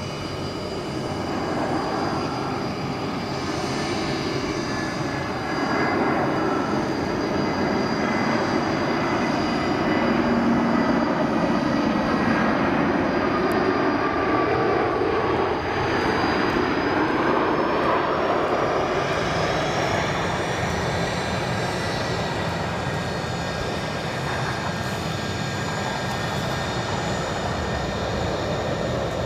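Airbus A320-214's CFM56-5B turbofan engines on a landing approach: a continuous jet rumble with high whining tones that slowly slide in pitch as the airliner passes.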